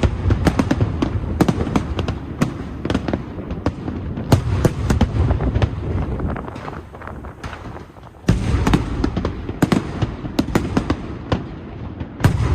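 Aerial fireworks going off in a dense barrage: rapid crackling reports over a deep rumble of shell bursts, easing off about seven seconds in before a fresh volley starts just after eight seconds.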